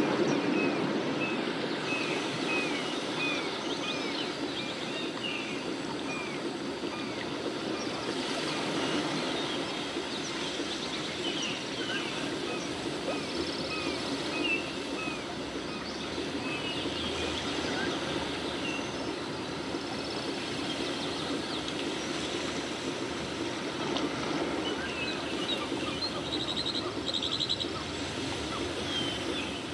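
Outdoor nature ambience: a small bird repeats short chirps, about two a second at first and then more scattered, over a steady murmur like running water.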